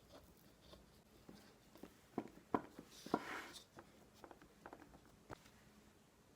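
Scattered light taps and clicks of utensils and dishes being handled in a kitchen, with a brief rustle about three seconds in.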